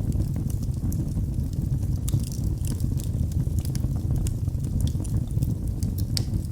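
Wood fire in a fireplace crackling: many small, sharp irregular pops over a steady low rumble, with one sharper pop near the end.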